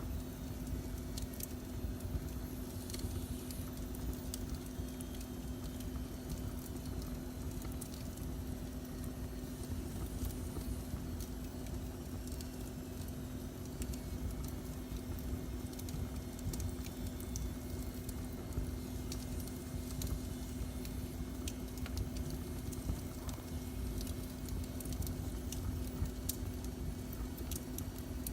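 Wood fire burning in a fireplace, crackling with scattered small pops over a steady low hum.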